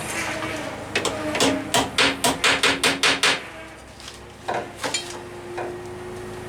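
A hammer striking steel bodywork in a quick run of about eight blows, roughly four a second, then two or three more taps a little later, as a repair panel is knocked into place between tack welds. A generator runs steadily underneath.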